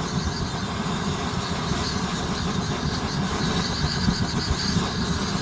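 Swiss Army Benzinvergaser-Brenner petrol vaporiser burner running with a steady, rough rumble: the burner is not yet hot enough to vaporise the petrol and burn cleanly.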